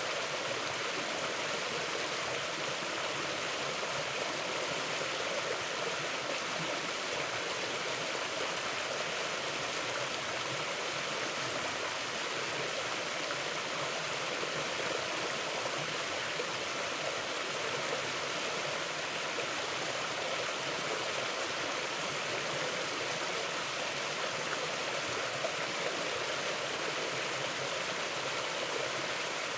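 Mountain river flowing steadily, a continuous rushing and babbling of water over rocks.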